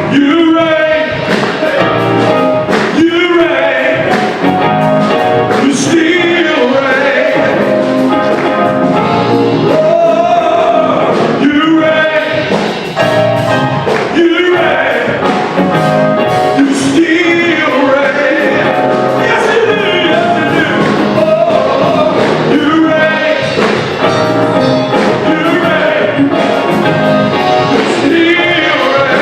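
Gospel worship music: voices singing over a live band with a regular beat.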